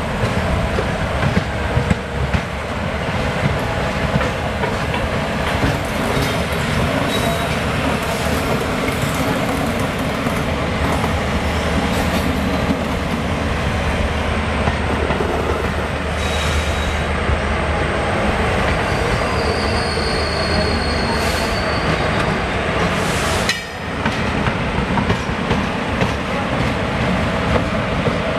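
Two passenger trains running side by side at speed: a steady loud rumble and clatter of steel wheels on rail, heard from one of the moving trains. A brief high wheel squeal comes about two-thirds of the way through, and the noise dips for a moment near the end.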